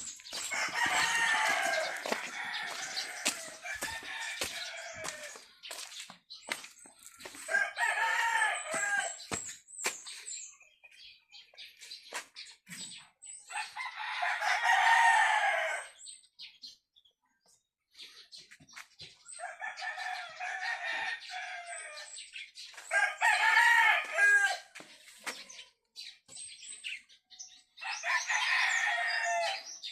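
Roosters crowing over and over, about six crows of one to three seconds each. Short clicks and taps come between the crows.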